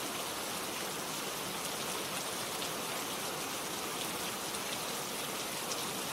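Steady rain falling on a surface, an even hiss with faint ticks of single drops.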